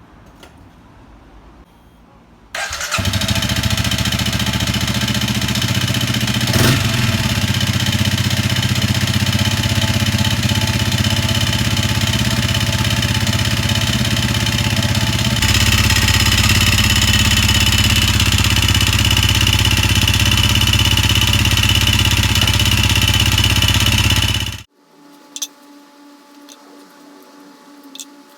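Honda CRF250L single-cylinder engine running steadily with an abnormal mechanical noise that a new cam chain tensioner did not cure, later traced to internal damage from abnormal combustion on stale gasoline. The sound starts suddenly a couple of seconds in, changes character abruptly about halfway, and stops suddenly near the end.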